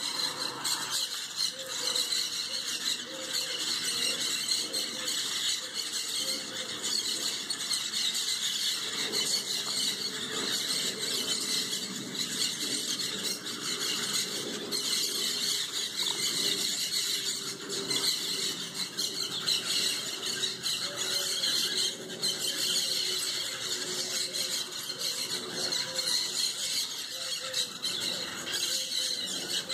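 A large flock of birds screeching and squawking together in a tree, a continuous dense chatter of overlapping calls; the observer thinks they are green parrots.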